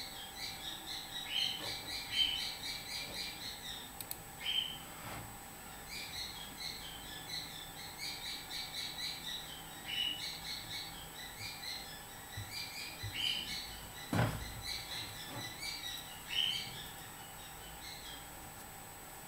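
Small birds chirping faintly in short, quick, high notes, over and over. A single dull thump comes about fourteen seconds in.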